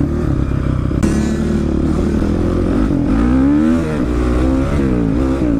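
Dirt bike engine running on a trail ride, revving up and down with the throttle; its pitch rises and falls several times between about three and five seconds in.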